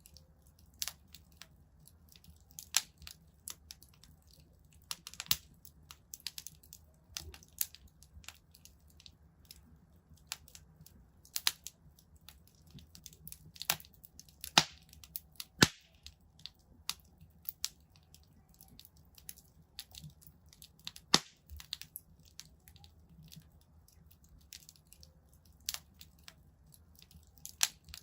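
Wood fire in a fireplace crackling: irregular sharp snaps and pops, a few of them much louder than the rest, over a faint steady low rumble.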